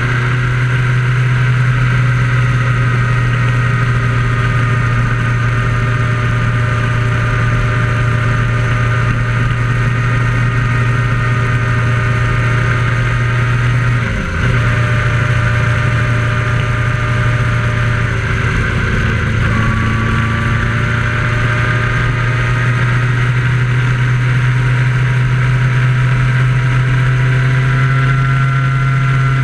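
Motorcycle engine running steadily at cruising speed, with one brief dip in pitch and level about halfway through.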